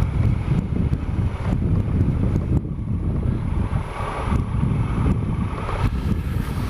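Triumph Explorer XC's 1215cc three-cylinder engine running steadily under the rider, mixed with heavy wind buffeting on the action camera's microphone.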